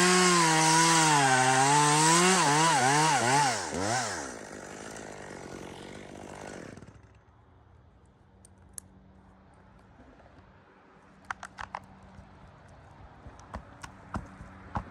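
Gas chainsaw cutting into a spruce, its engine wavering under load and then revved up and down several times in quick succession. The engine then drops to a low idle and falls away about seven seconds in, leaving a few sharp clicks and taps near the end.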